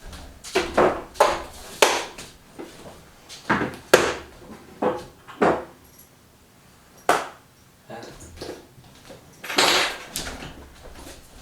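Irregular knocks and clunks of hard objects, wood among them, being handled and set down, about a dozen in all, with a longer scraping rustle near the end.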